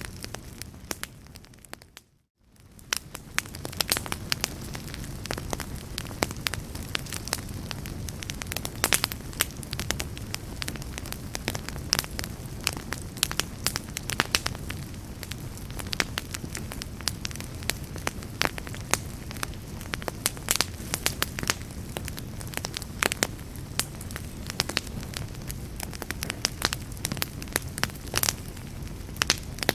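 Wood fire crackling, with frequent sharp pops and snaps over a steady low rumble of flames. About two seconds in, the sound dips briefly to near silence and then fades back in.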